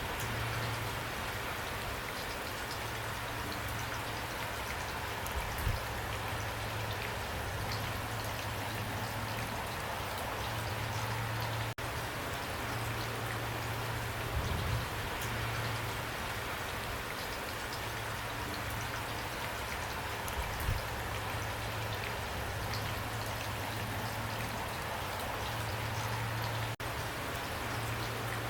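Heavy rain pouring steadily: a dense, even hiss with individual drops ticking through it. It cuts out for an instant twice.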